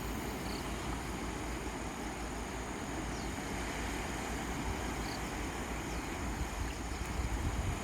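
Strong sea waves breaking in a steady, continuous rush of surf.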